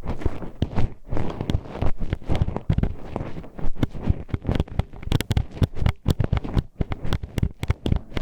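Hairpins poking and scraping inside a microphone's ear, giving a dense run of sharp, irregular clicks and clacks, several a second, with low rumbling handling noise beneath.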